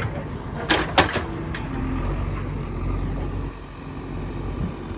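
Diesel engine of a JCB 3DX backhoe loader running steadily, with a few sharp knocks about a second in.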